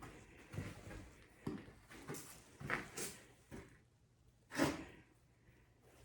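Irregular footsteps and scuffing knocks of someone moving about with the camera, with one louder knock about four and a half seconds in.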